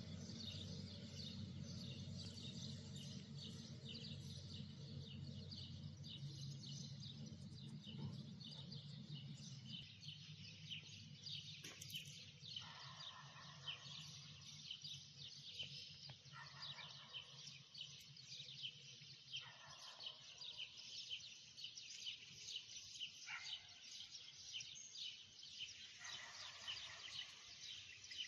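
Small birds chirping busily and without a break, with a lower call repeating every three to four seconds from about halfway in. A faint low hum runs under the first third and then fades.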